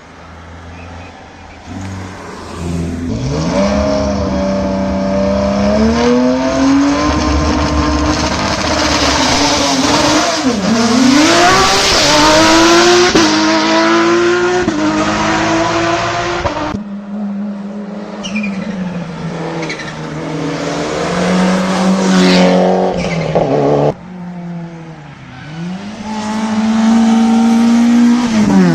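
Hill-climb race cars driven flat out one after another, engines revving high and dropping at each gear change or lift, with sudden cuts from one car to the next.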